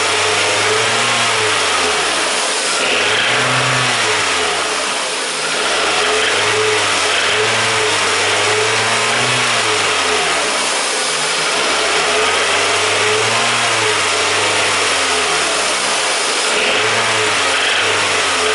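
Four-cylinder car engine being revved up and down by hand at the throttle, its pitch rising and falling every couple of seconds. Under the revs it gives a small, intermittent hammering knock, which the owner takes for worn connecting rod bearings or crankshaft bearings.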